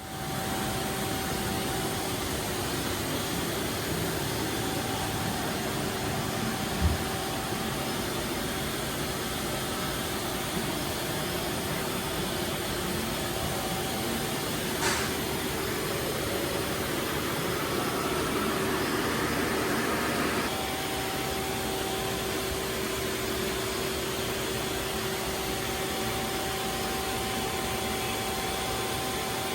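Doosan Puma 2100Y CNC lathe running under power: a steady machine hum with two steady tones in it. There is a sharp click about 7 seconds in and another about 15 seconds in, and a louder, hissier stretch from about 16 to 20 seconds that cuts off suddenly.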